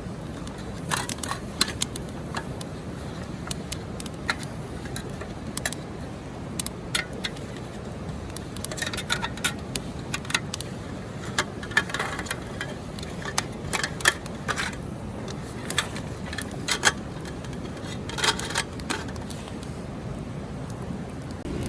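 Small metal clinks and clicks, scattered and sometimes in quick clusters, like camp cookware and utensils being handled, over a steady low rushing background.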